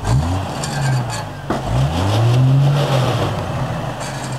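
Jeep Wrangler's engine revving twice under load as it crawls over a large rock. A short rev comes right at the start. A longer one begins about one and a half seconds in, rises, holds for over a second, then falls away.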